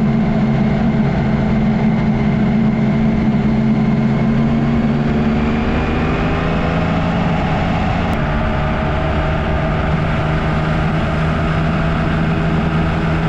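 Yamaha XSR900's inline three-cylinder engine running steadily, its pitch shifting slightly about halfway through.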